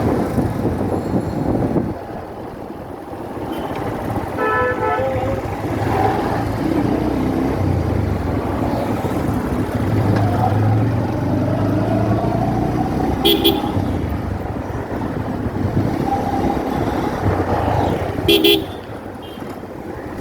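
Continuous road traffic noise with short vehicle horn toots three times: about four seconds in, near the middle and near the end.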